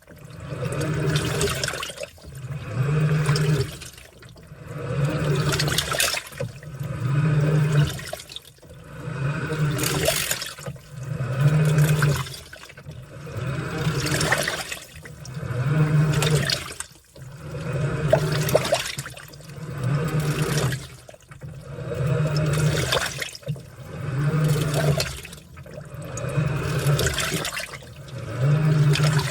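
Washing machine in its wash cycle: the motor hums and the water and laundry churn in surges about every two seconds, as the wash is driven back and forth with short pauses between strokes.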